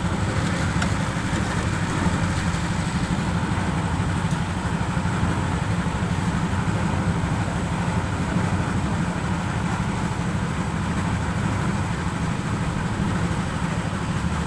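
An engine running steadily at a constant speed, a low, even drone with no revving.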